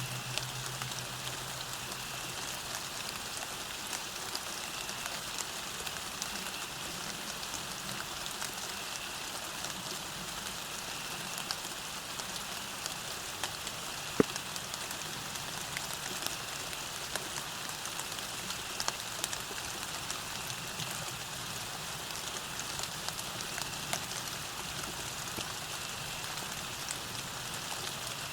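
Steady rain falling on a path, an even hiss with many small drop ticks and one sharper drop click about halfway through.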